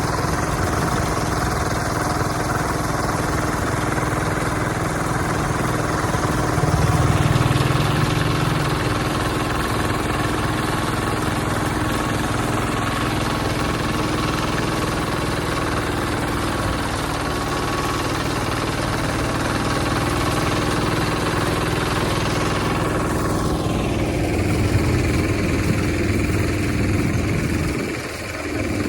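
Hand tractor's engine running steadily, its note swelling for a couple of seconds about seven seconds in.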